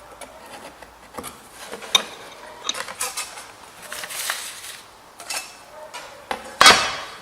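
Metal marking-out tools (steel rule, T-square, scriber) being handled on sheet metal on a workbench: a string of sharp clicks and clinks with a few short scratching scrapes, and a louder clatter near the end.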